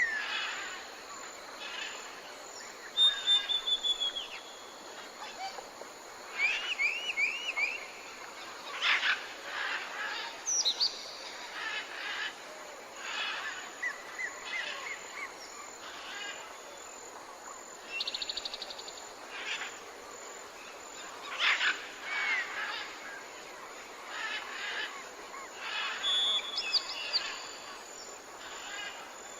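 Several wild birds calling and singing in a morning chorus: short chirps, quick trills and whistled rising and falling notes come every second or two over a steady background hiss.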